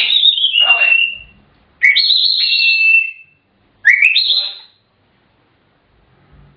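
African grey parrot whistling: three whistled phrases, the first falling in pitch and the next two rising sharply, followed by a short quiet spell near the end.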